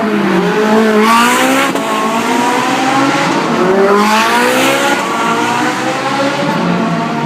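A performance car's engine revving hard under acceleration, its pitch climbing in two strong sweeps, about a second in and again about four seconds in.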